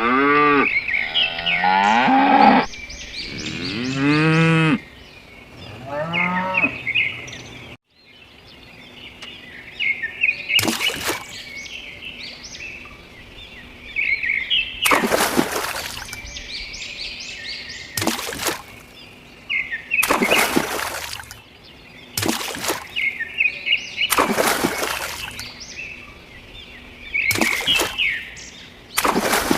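Cows mooing, several long calls in the first seven seconds or so. After a sudden cut, birds chirp, with about eight short loud swishes of noise coming every couple of seconds.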